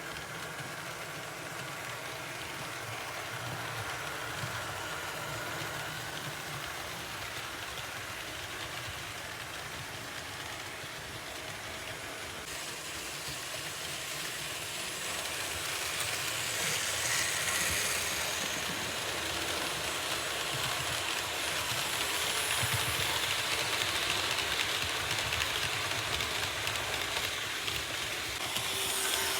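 Märklin H0 model train running along the track: a steady hum and rolling wheel noise that grows louder about halfway through as the train comes closer.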